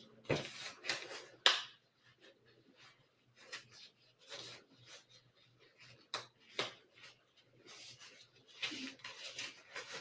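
Disposable gloves being pulled on and their cuffs drawn up over the sleeves of an isolation gown: rubbing and rustling in irregular bursts, loudest in the first second and a half.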